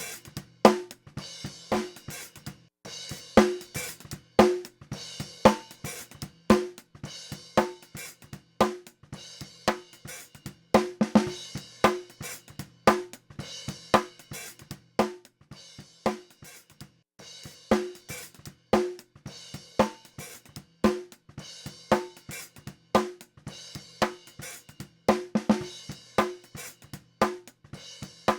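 Recorded drum kit playing a steady, repeating groove of kick, snare, hi-hat and cymbal hits, run through an HBK TSX tape-saturation 500-series unit.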